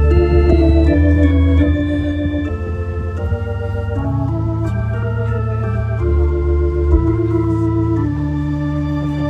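Organ-toned keyboard playing slow, held chords over a low sustained bass, the chords changing every second or two: the instrumental opening of a song.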